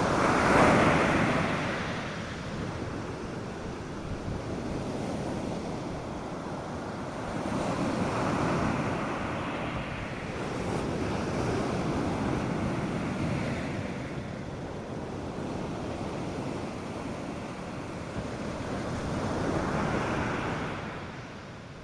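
North Sea surf breaking on a sandy beach: waves rushing in and washing back in slow swells every few seconds, the biggest about a second in and another near the end, over a light steady wind.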